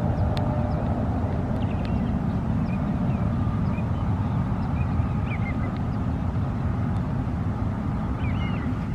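A steady low rumble throughout, with short high bird chirps scattered over it.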